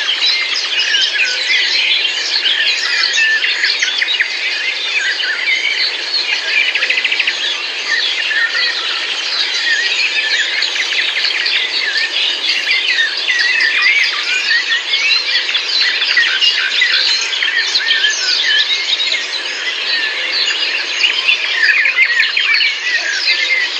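A dense chorus of many songbirds singing and chirping at once, a steady overlapping mass of short calls and warbles.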